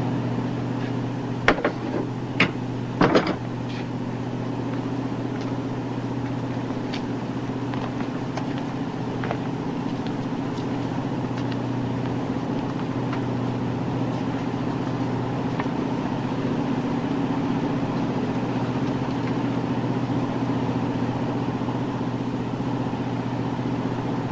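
Steady low drone of a patrol boat's engines and machinery underway, with a few sharp clicks and knocks about one and a half to three seconds in.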